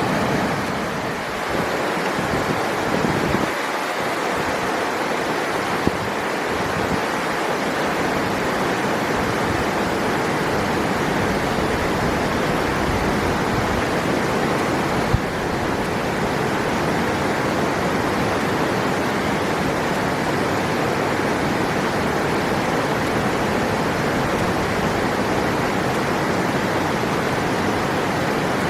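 River water rushing: a steady, even noise with a brief click about fifteen seconds in.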